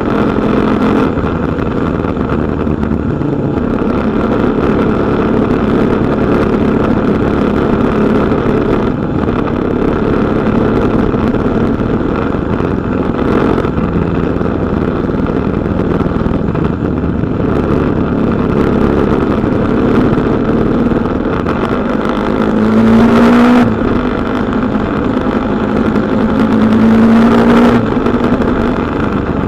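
KTM Duke 250's single-cylinder four-stroke engine running under way while riding. Twice near the end it revs up, rising in pitch and getting louder, then drops off sharply.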